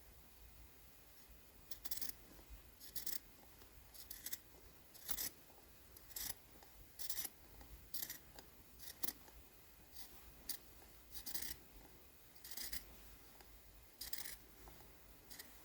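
Scissors snipping through fabric in short, separate cuts, about one a second, while trimming a cut-out shape.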